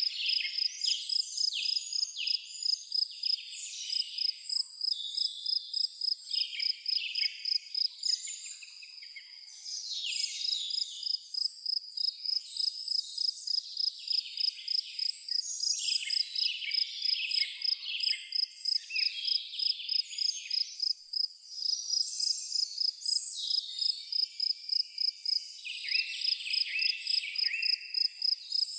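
High-pitched insect chirping that pulses steadily about three times a second, with several songbirds singing irregular chirps and trills over it. The pulsing weakens briefly about a third of the way in.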